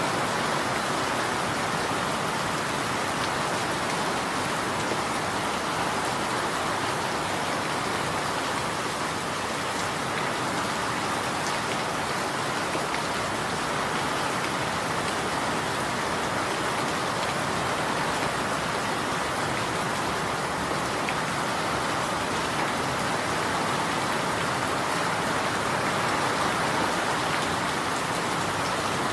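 Steady rain falling and pattering on surfaces, a constant even hiss with no change in intensity.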